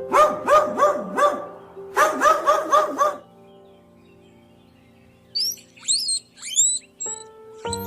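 A dog barking or yapping in two quick runs, about four barks a second, in the first three seconds. A few short, high bird chirps follow near the end.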